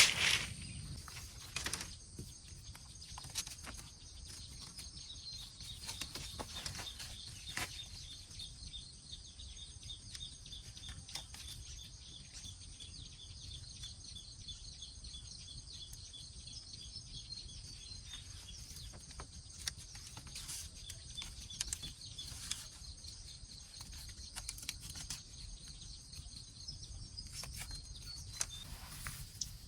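Forest ambience: a steady high-pitched chirring chorus of wild animal calls, with scattered light clicks and knocks and one louder knock at the very start.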